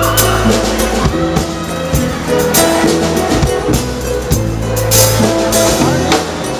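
Band playing an instrumental passage, with drum kit, guitar and bass.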